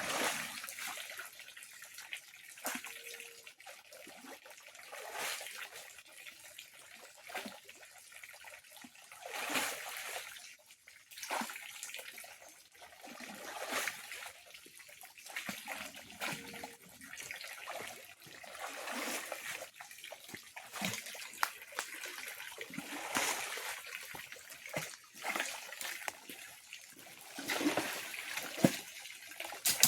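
Fish-pond water being worked during cleaning: irregular splashes and sloshes every second or two, with trickling as water runs off in between.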